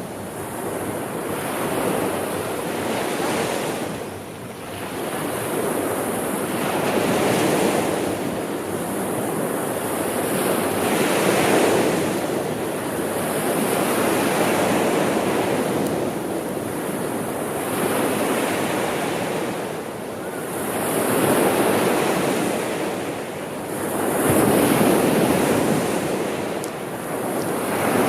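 Sea waves breaking and washing in, the surf swelling and fading in slow surges every four to five seconds.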